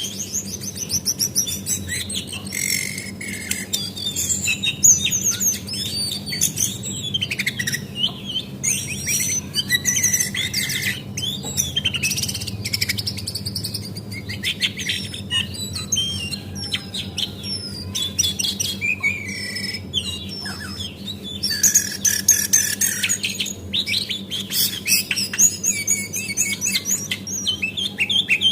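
Brown female cingcoang (jongkangan) songbird calling in a dense, unbroken stream of high, quick chirps, twitters and trills, with a low steady hum underneath.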